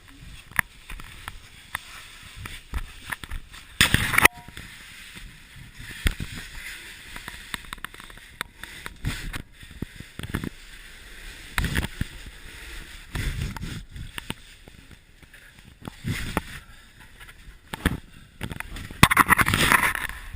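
Irregular knocks, clicks and scrapes, with a louder scraping rush about four seconds in and another near the end.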